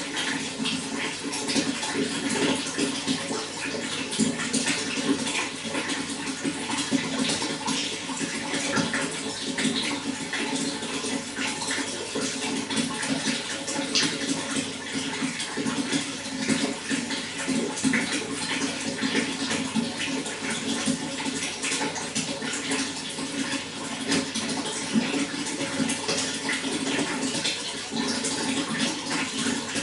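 Running water flowing and splashing steadily, with many small splashes and gurgles.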